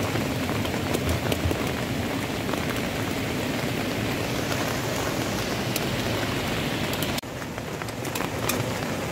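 Steady hiss of rain falling on tent fabric, with scattered small clicks and knocks as a butane gas canister is swapped on a portable camping stove.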